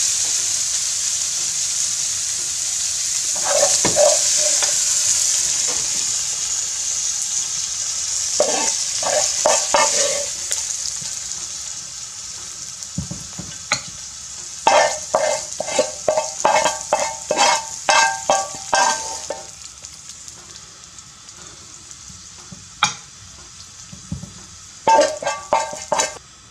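Ground beef sizzling in a frying pan while a utensil scrapes and knocks against the pan in short runs; the sizzle fades over the second half.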